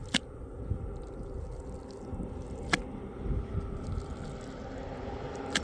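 Wet mud being worked, with squelching and scraping and three sharp clicks, one near the start, one in the middle and one at the end.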